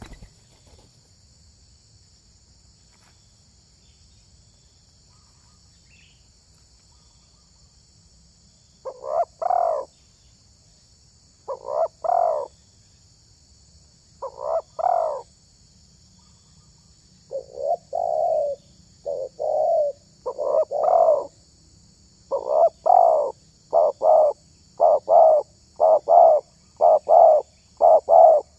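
Spotted dove cooing. After a quiet start, single coos come every two to three seconds from about nine seconds in, then quicken into a rapid, regular run of coos near the end.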